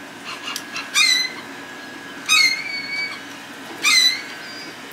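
Birds calling repeatedly: three loud calls about a second and a half apart, each a quick downward sweep that settles into a short held note.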